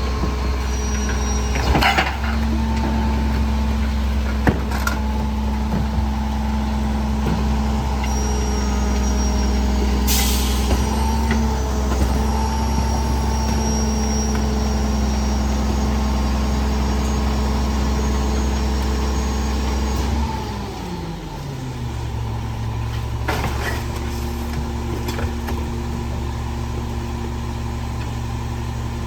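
Garbage truck's diesel engine running steadily at raised revs, with a short air hiss about a third of the way through, then the engine revs drop to a lower idle about two-thirds through. A few knocks and clanks are heard over it.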